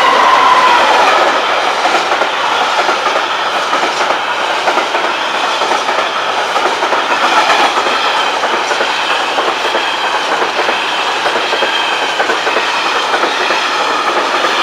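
A Class 56-hauled freight train passing over a level crossing: a steady loud clatter and rumble of the wagons' wheels on the rails, with a faint thin squeal running under it.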